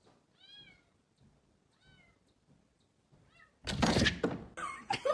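A cat meowing three times, short faint meows about a second and a half apart, followed about three and a half seconds in by a loud thump.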